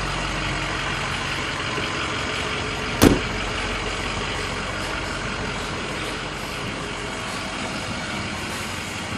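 2007 Ford F550 truck's engine idling steadily, with one sharp knock about three seconds in.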